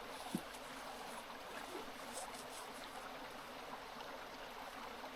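Steady rushing of a river flowing, with a few faint ticks scattered through it.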